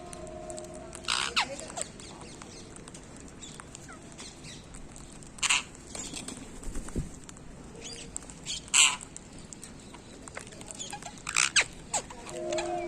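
Parrots giving short, sharp squawks, a few spread out over several seconds, with quieter chatter and rustling between.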